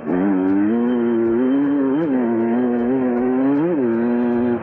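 Beta 300RR single-cylinder two-stroke dirt bike engine, fitted with a new exhaust, running under load as it is ridden. The revs rise briefly twice, about two seconds in and again near the end.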